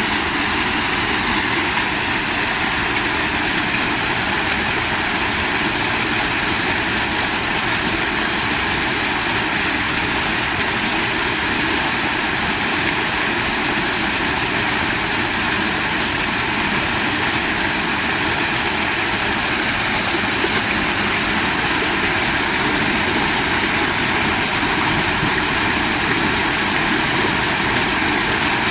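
Heavy rain falling, a dense steady hiss that neither rises nor falls.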